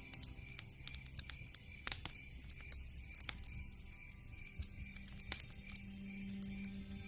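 Campfire crackling, with irregular sharp pops; the loudest come about two seconds in and past five seconds. Under it a faint chirp pulses evenly, about twice a second.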